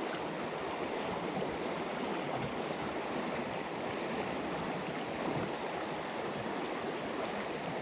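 Small mountain stream running steadily: an even rush of flowing water.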